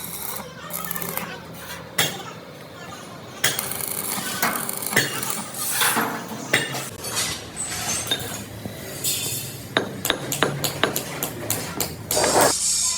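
Hammer blows and metal knocks on steel parts, a run of sharp, irregularly spaced strikes and clinks, several each second in the second half.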